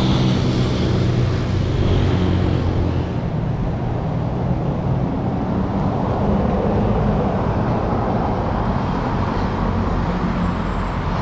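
Street traffic: motor vehicle engines running and passing, with steady tyre and road noise.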